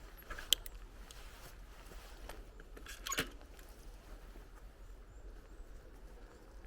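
Bicycle rolling along an outdoor path, with low tyre and ground noise, a sharp click about half a second in and a brief rattle about three seconds in.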